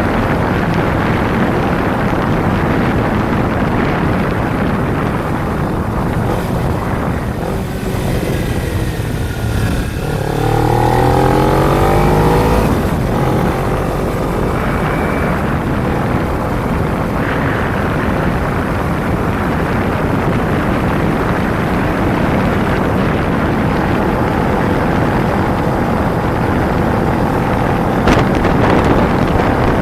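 Kawasaki Ninja 250 motorcycle on the move, with heavy wind rushing over the microphone. About ten seconds in, the engine note climbs in rising steps as the bike accelerates through the gears.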